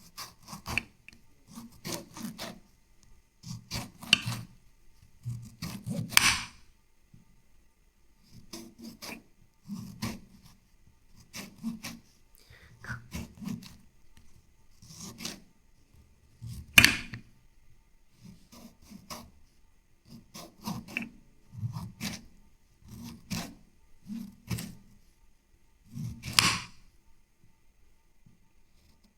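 Repeated scraping strokes on wood, roughly one every second or two, with a few sharper, louder strokes among them.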